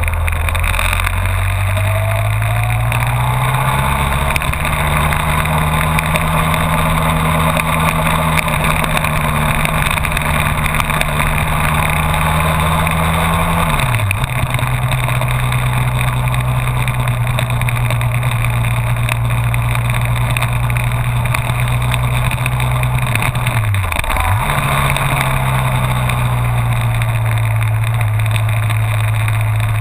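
Honda VFR1200F's V4 engine running under way, with wind rushing past. The engine note rises over the first few seconds, holds steady, then dips sharply and recovers twice, about halfway through and again near the end, settling at a lower pitch after the first dip.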